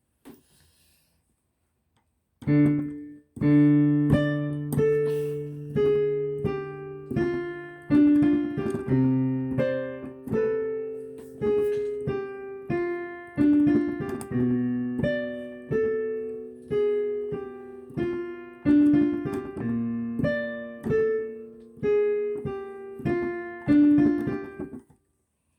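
Solo piano playing. After about two seconds of silence, a melody of struck notes over held lower notes begins, and it stops shortly before the end.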